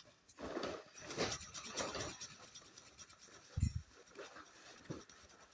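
Faint scratching of a drawing tool stroking across paper in irregular strokes, with one soft low thump about three and a half seconds in.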